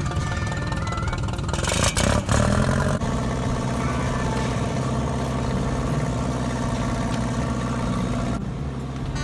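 Massey Ferguson tractor engine running steadily, with a brief louder burst about two seconds in.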